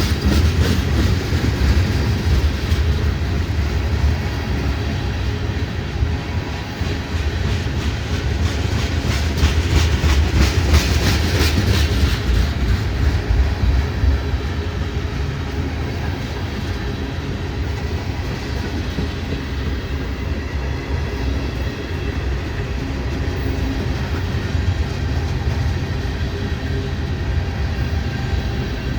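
Freight train cars rolling past, a continuous rumble with rapid wheel clicks over the rail joints that are loudest about nine to twelve seconds in.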